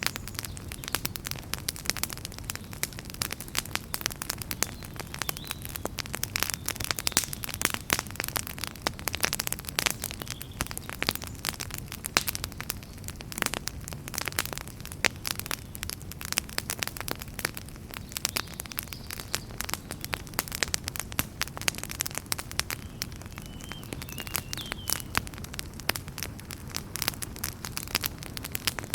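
Wood fire in a fireplace crackling steadily: dense irregular pops and snaps over a low rumble of burning.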